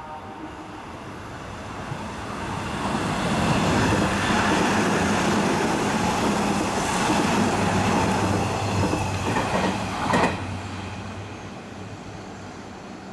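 Hanshin 1000 series electric train passing through a station at speed without stopping: the rush of wheels on rail builds over about three seconds to a loud, steady run, with a quick cluster of sharp clacks about ten seconds in as the train clears, then fades away.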